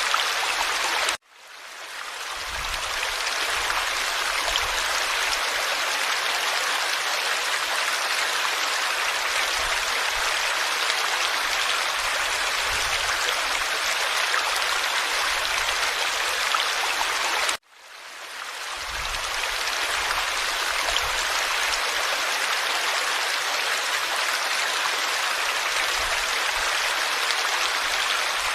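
Forest stream flowing, a steady rushing and babbling of water. It cuts out abruptly twice, about a second in and again past the middle, each time fading back in over a couple of seconds.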